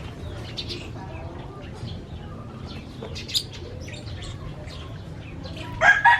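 Small birds chirping in short, scattered calls over a steady low hum. Near the end a rooster begins to crow loudly.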